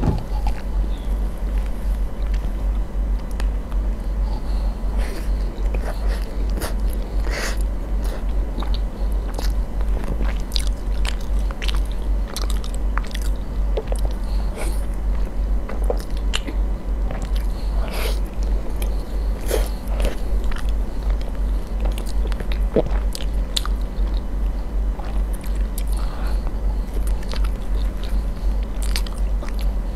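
Close-miked eating sounds: wet chewing, biting and mouth clicks as spoonfuls of a soft, creamy layered dessert are eaten. Underneath runs a steady low throb, pulsing about four times a second.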